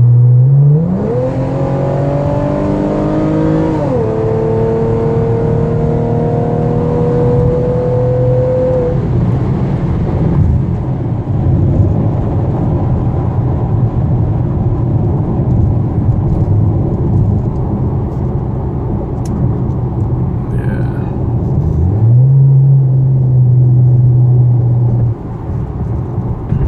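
A 2013 Chevrolet Camaro's engine and exhaust, heard from inside the cabin with the windows up. The car accelerates hard with the engine note rising for about three seconds, dips at a gear change and climbs steadily again through the next gear, then settles into cruising with road noise. Near the end a steady drone returns for a few seconds.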